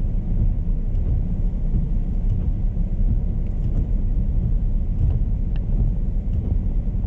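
Steady low rumble of a car driving, heard from inside the cabin: engine and road noise with no other event standing out.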